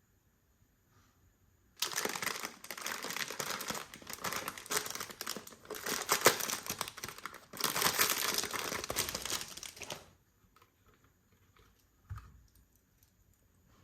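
Toy packaging being handled and unwrapped: dense crinkling and rustling that starts suddenly about two seconds in, runs for about eight seconds with a brief dip past the middle, then stops, followed by a soft knock near the end.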